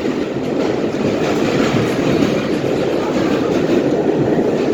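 Train running along the tracks: a loud, steady rumble that holds without a break.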